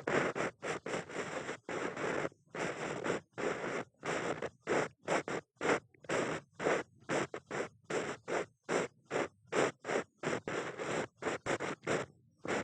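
Ear pick (mimikaki) scraping and rubbing in an ear, in short scratchy strokes about two to three a second with brief gaps between them.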